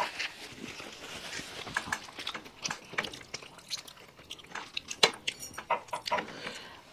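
Chewing and eating sounds, with many small scattered clicks and clinks of cutlery or plates.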